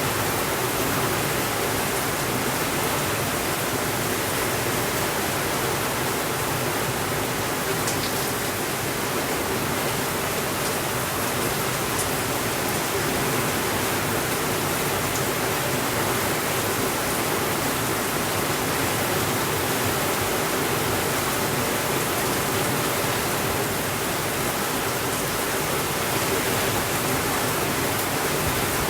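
Steady rainfall, an even, unbroken hiss, with a few faint clicks.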